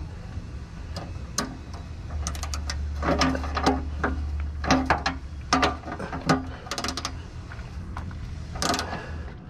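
Ratchet wrench clicking in short, uneven runs as it works on the oil drain plug, which is tight, over a steady low hum.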